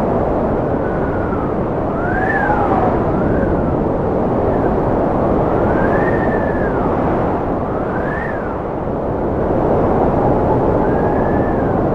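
Cold wind blowing hard and steadily, with high whistling tones that rise and fall in pitch every couple of seconds.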